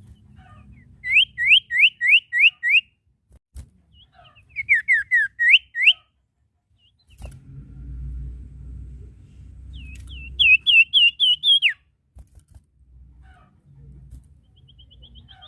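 Sirtu (cipoh) songbird calling in three quick bouts of loud, clear whistled notes: a run of about six rising notes, a descending-then-rising series, and near the end another rapid run that falls at its close. A low rumble sits under the last bout.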